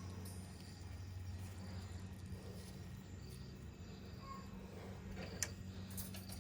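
Faint insect chirping over a steady low hum, with a single sharp click about five seconds in.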